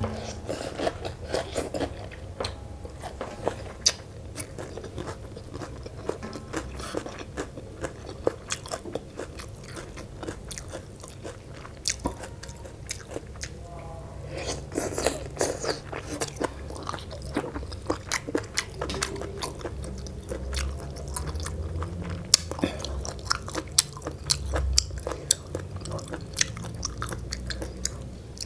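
Close-up eating sounds of a mouthful of spicy rice-noodle salad: steady chewing with many small wet clicks and crunches.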